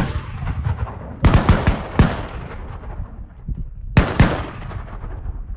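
Shotgun blasts fired at waterfowl: five shots in about four seconds, the last two close together, each with a short echoing tail.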